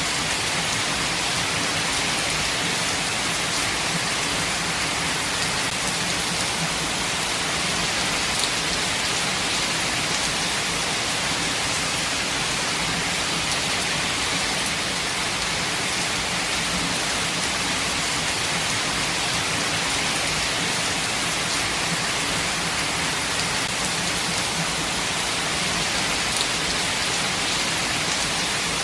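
Steady, heavy rain falling in a forest, an even hiss with a few louder drops now and then.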